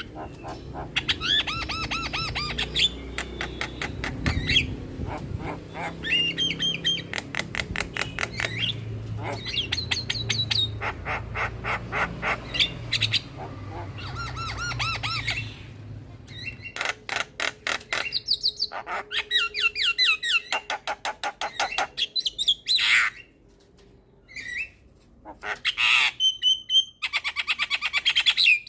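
Javan myna singing a fast, varied song of harsh chattering notes, rapid clicks and short whistles, in bursts with brief pauses toward the end.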